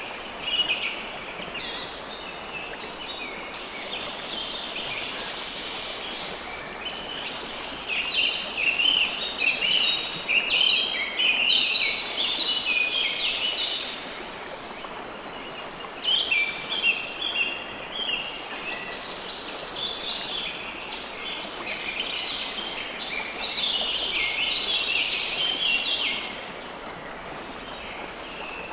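River water flowing steadily, with many birds chirping over it in busy overlapping bursts of high notes that come and go, thinning out near the end.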